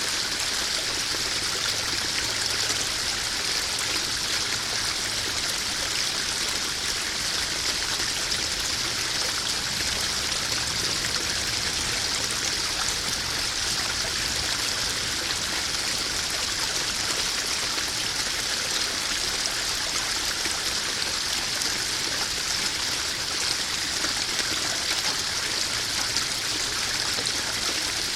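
Small garden pond waterfall splashing and trickling steadily into a koi pond.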